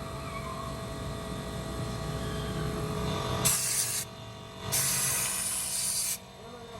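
Aerosol carburettor jet cleaner sprayed in two bursts: a short hiss about halfway through, then a longer one of about a second and a half. Before them there is a low steady rumble.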